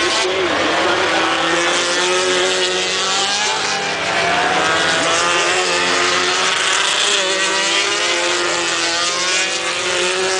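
Several racing motorcycle engines running hard at the same time, their overlapping notes sliding up and down in pitch.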